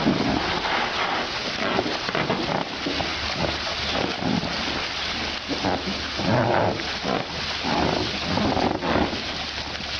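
An animal calling over a steady noisy background, with louder calls about six and eight and a half seconds in.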